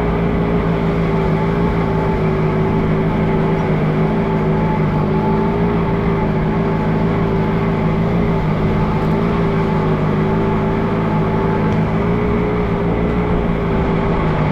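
Allis Chalmers G tractor's small four-cylinder gasoline engine running steadily under load as the tractor drives through snow, its pitch holding nearly even with only a slight waver.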